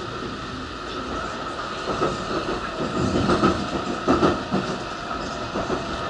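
Interior of a Tokaido Shinkansen N700-series car in motion: steady running noise of the train, with irregular knocks and clatter from the running gear, loudest about three to four seconds in.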